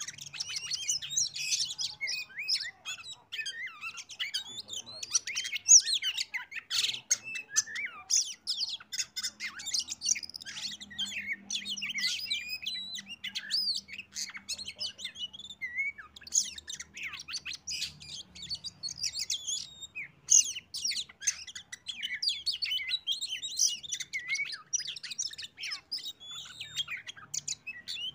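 Oriental magpie-robin (kacer) singing a long, unbroken run of rapid, varied whistles and chirps, the kind of song played as a lure to set other magpie-robins singing.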